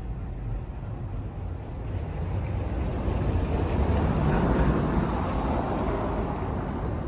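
A motor vehicle passing by in the street, its rumble and noise swelling to a peak a little past the middle and then easing off slightly.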